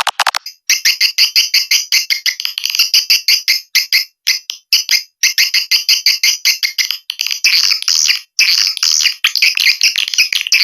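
Swiftlets calling: a continuous, rapid high twittering made of quick chirps in trains with short gaps, fuller in the second half. It is a swiftlet-house lure call ('outer sound') used to draw swiftlets in.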